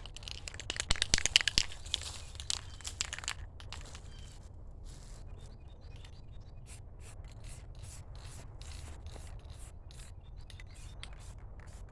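Aerosol spray-paint can hissing in many short spritzes of white paint onto metal bed bars, louder over the first three seconds or so, then fainter and more evenly spaced.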